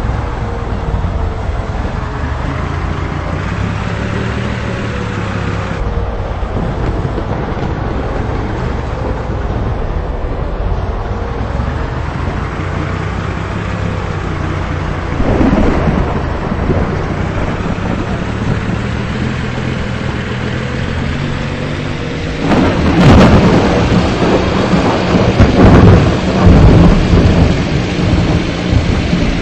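Thunder over a steady low rumble: a short roll about halfway through, then a long, loud roll of thunder with several peaks near the end.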